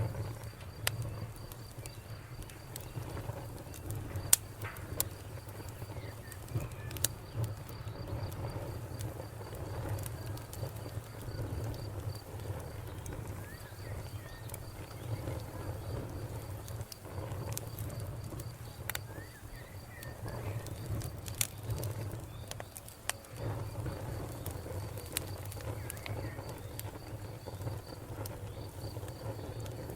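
Wood fire crackling, with irregular sharp pops of burning wood over a low steady rumble of flame. A faint, high, even ticking trill runs underneath.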